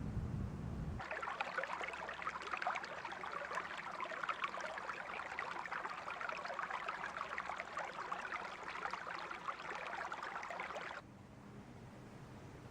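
Running water of a small stream or brook, a steady bright babble that cuts in suddenly about a second in and cuts out suddenly near the end.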